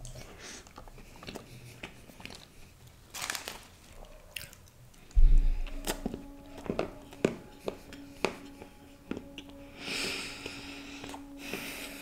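Close-miked eating sounds of a dry, crumbly chocolate muffin being chewed, with many small clicks and smacks. There is a heavy dull thump about five seconds in, and a faint steady tone from about halfway on.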